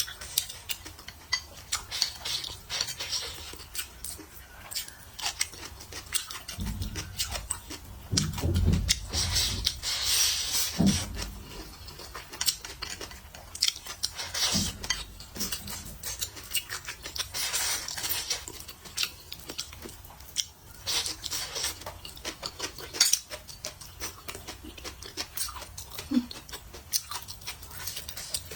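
Chewing food, with utensils clicking against dishes now and then; a louder, fuller stretch of chewing comes about a third of the way in.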